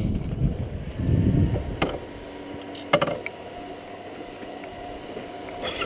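Honda CRF250L's single-cylinder 250 cc engine running at low revs, with two sharp knocks about a second apart; near the end the engine picks up and pulses louder as the bike pulls away.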